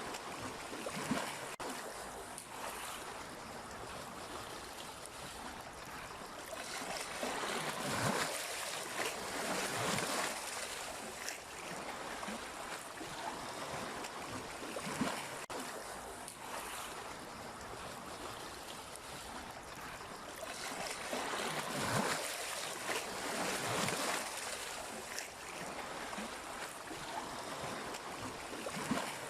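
Sea waves surging and receding in a continuous wash, swelling every few seconds, with the loudest surges about eight to ten and twenty-two to twenty-four seconds in.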